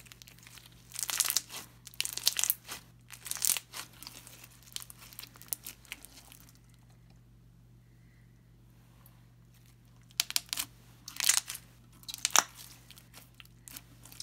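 Slime being squeezed and pressed by hand, making crackly, crunchy popping sounds in two spells, the first near the start and the second a little after the middle, with a quieter stretch between.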